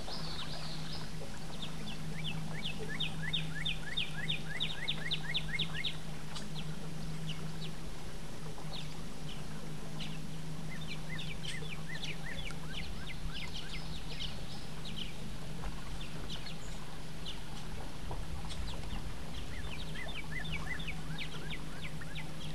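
Steady low hum of a small boat motor, with birds calling over it: runs of rapid, sharp repeated notes, loudest a few seconds in, again around the middle and near the end.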